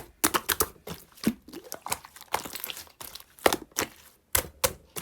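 Clear slime being pressed and stretched by hand, giving a run of irregular sharp clicks and crackling pops.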